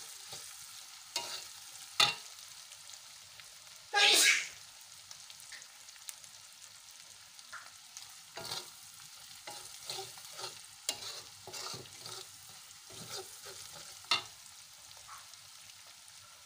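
Ground spice paste of shallots, garlic and chilli sizzling in oil in an aluminium wok, frying until fragrant, stirred with a metal spatula that clinks and scrapes against the pan. The loudest clink comes about four seconds in.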